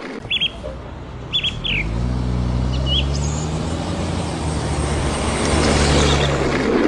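Small birds chirping a few times, then a low engine hum sets in about a second and a half in and grows steadily louder, like a motor vehicle approaching.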